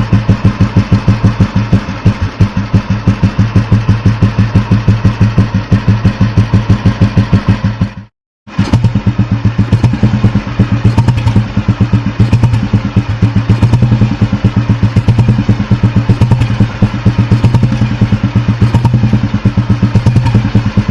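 Old Royal Enfield G2 Bullet single-cylinder four-stroke engines idling with their steady, even thump, about six beats a second. A short break about eight seconds in, then another Bullet's engine idling with the same thump.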